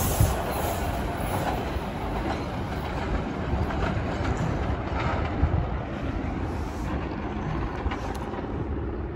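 CTA 5000-series rapid-transit train pulling away from an elevated platform, its running noise on the rails slowly fading as it recedes.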